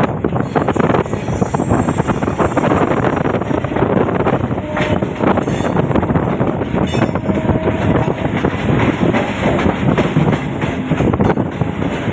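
Freight wagons of a long goods train rolling by, their wheels clattering steadily over the rail joints, with a faint wheel squeal in the middle.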